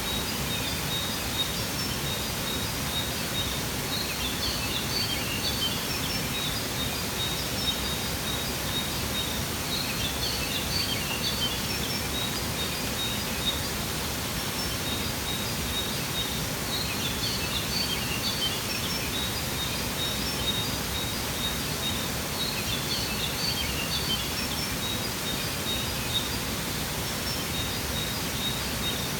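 Steady rush of a waterfall, with bursts of high bird chirping that come back about every six seconds.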